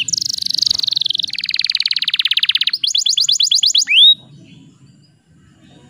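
Canary singing a fast rolling song: quick falling trills, then a rapid buzzy roll, then a run of repeated notes ending in one rising note. The song stops abruptly about four seconds in.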